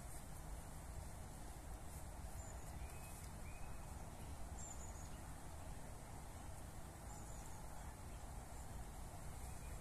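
Faint outdoor ambience: a low steady background rumble with a few faint, short high bird chirps scattered through.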